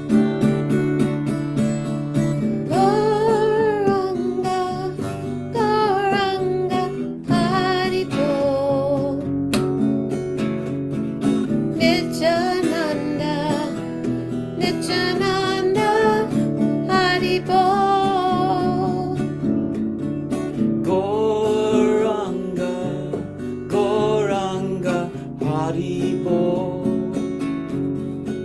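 Kirtan: voices chanting a devotional mantra melody over a steadily strummed string accompaniment.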